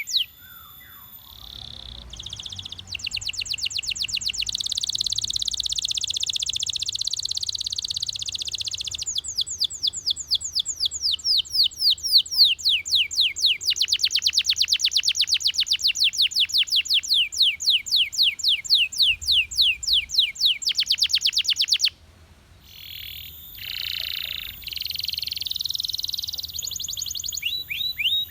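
Belgian canary singing long rapid trills of quickly repeated falling notes, the trills changing speed from one run to the next. About 22 s in the song breaks off briefly, then resumes with broader, slower notes.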